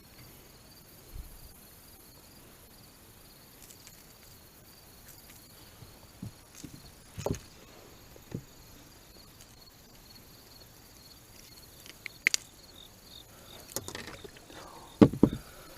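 Faint insects chirping: a high, evenly pulsing trill that runs steadily. Scattered clicks and knocks sound over it, the loudest a pair of thumps near the end.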